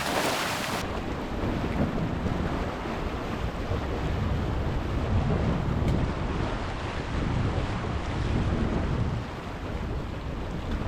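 Wind buffeting the microphone over the wash of surf on jetty rocks, an uneven low rumble with no distinct events. A high hiss stops under a second in.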